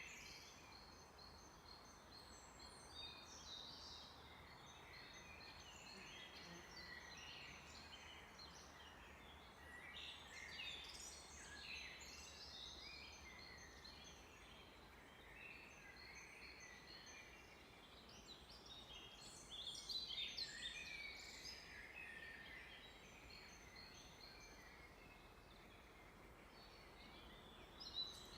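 Faint chorus of several songbirds chirping and singing in quick overlapping notes, busiest about a third of the way in and again about two-thirds through, over a low steady hiss.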